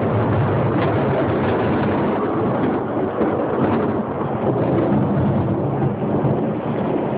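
Thunderstorm: a steady, loud rumble of thunder with rain, with no single sharp clap.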